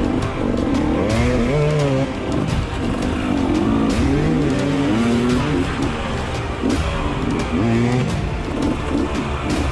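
Dirt bike engine on a trail, revving up and down again and again as the throttle opens and closes, with scattered knocks and clatters.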